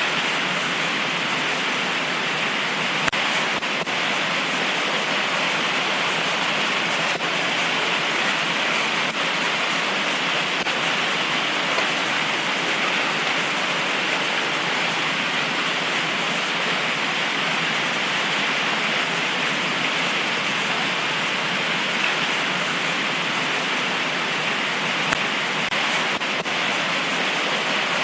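Heavy tropical rain pouring down steadily as an even hiss, with a few faint single drip ticks scattered through it.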